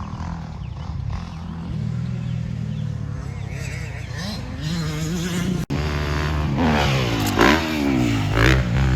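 Dirt bike engines running and revving, with the pitch rising and falling in the last few seconds. The sound breaks off for an instant about two-thirds through.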